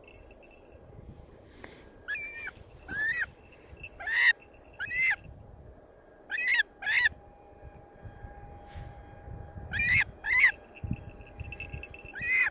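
A bird calling: about nine short, clear cries, mostly in pairs, each rising and falling in pitch.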